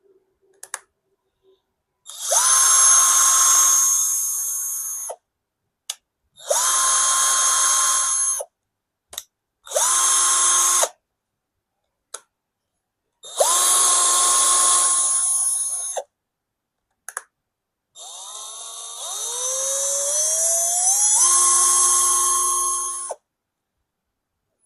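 Budget 20-volt cordless hammer drill run with no load in five trigger bursts of a few seconds each, its motor giving a steady whine. In the last burst the whine climbs in pitch as the speed rises before holding steady. Short clicks come between the runs.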